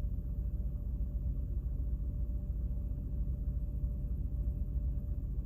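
Low, steady rumble with no distinct events.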